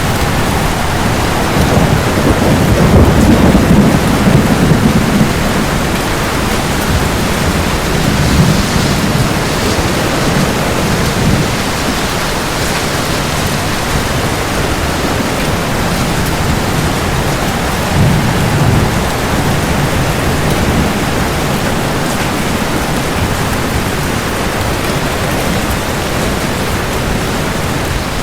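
Steady heavy rain hissing, with low rolls of thunder swelling up about two seconds in, again around eight seconds, and once more near eighteen seconds.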